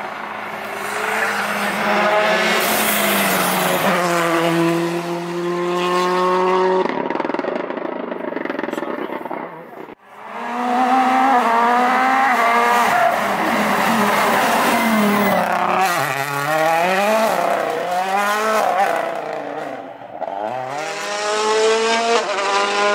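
World Rally Car's turbocharged 1.6-litre four-cylinder engine revving hard through gear changes, its pitch climbing and dropping as it passes. It cuts out about ten seconds in, and a second car is heard doing the same.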